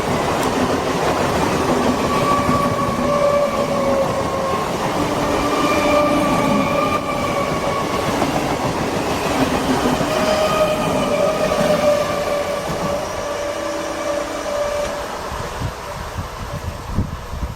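Electric local train (EMU) running past on the track: a steady rumble of wheels on rail with a faint, slightly wavering whine over it, fading away over the last few seconds.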